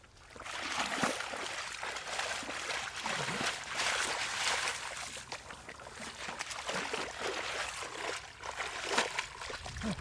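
Shallow water splashing and sloshing, uneven and continuous, starting about half a second in.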